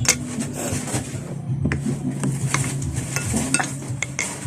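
Spoon clinking and scraping against a plate in a series of short, irregular clicks while eating, over a steady low hum.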